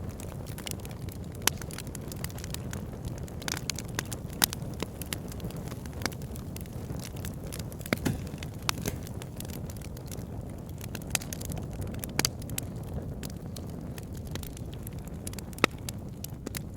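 Wood logs burning in a fireplace, crackling: a steady low rumble of the flames with scattered sharp pops and snaps, a few of them louder.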